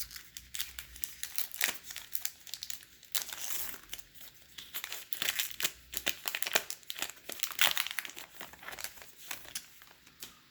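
A baseball card pack's wrapper being torn open and crinkled in the hands, a dense, irregular crackling with sharp clicks, mixed with the shuffling of the cards inside.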